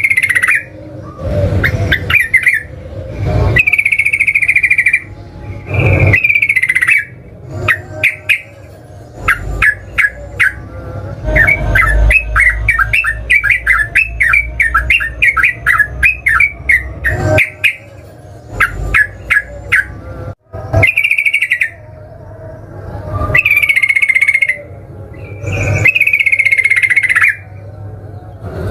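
Yellow-vented bulbul (trucukan) singing loudly: bubbly whistled phrases repeated every second or two, with a long rapid run of chattering notes, the 'ropel', in the middle.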